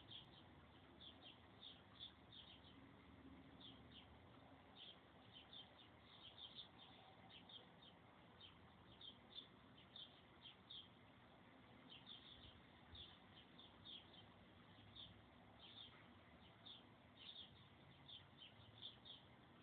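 Faint bird chirping: short high chirps repeating irregularly, a few a second, throughout.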